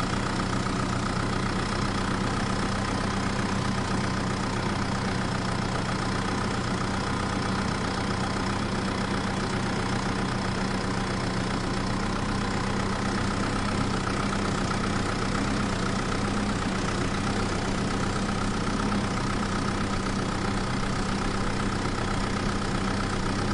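A small engine or motor running steadily at an even pace, with a constant hum that does not rise or fall.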